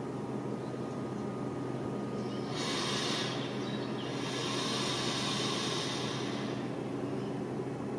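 Compressed air hissing out of a train's pneumatic system in two bursts, a short one about two and a half seconds in and a longer one from about four to six and a half seconds, over a steady electrical hum from a train standing at the platform.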